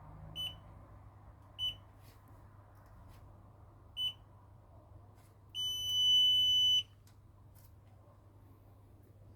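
Multimeter continuity beeper: three short beeps, then one longer beep of about a second, all at the same high pitch, as the test probes close a circuit. Faint clicks of the probes can be heard between the beeps.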